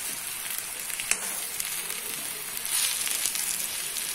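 Fried bitter gourd rounds and chopped onion sizzling in hot oil in a pan, a steady frying hiss. A few sharp clicks break through, and it gets louder for a moment about three seconds in.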